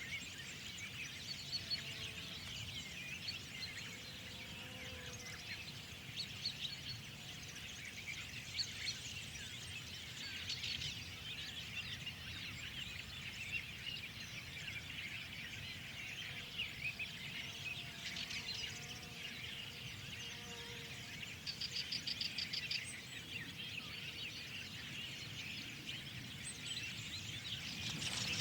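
Dawn-chorus style spring birdsong: many small birds chirping and twittering at once, with a fast trill of rapidly repeated notes from one bird near the middle, over a steady background hiss.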